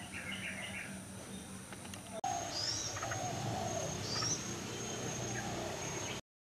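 Birds chirping, with short calls at first. After an abrupt change about two seconds in come higher swooping chirps over a steady high-pitched tone. The sound cuts off just before the end.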